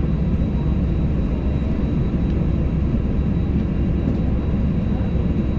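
Steady cabin noise inside an Airbus A320 on the ground: an even low rumble from the aircraft's engines and air systems, with a faint steady high whine above it.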